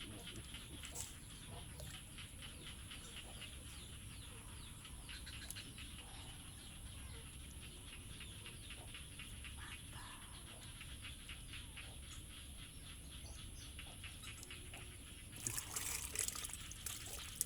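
A steady chorus of animal calls, made of fast, dense clicking notes with a constant high whine behind it. A short, louder noisy burst comes near the end.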